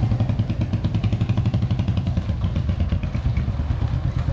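Royal Enfield motorcycle engine running while being ridden, with a steady, rapid, even beat.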